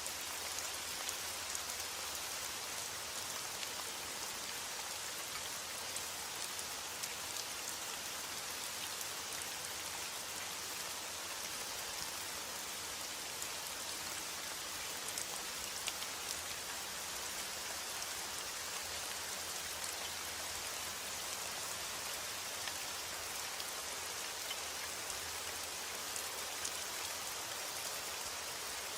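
Steady rain falling, with scattered drop ticks on a surface over an even hiss.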